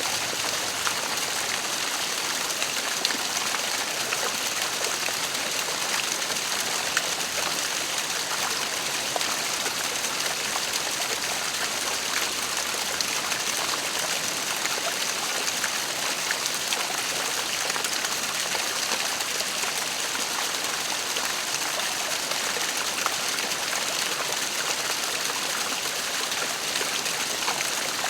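Waterfall: a steady, even rush of falling water, flecked with small splashes.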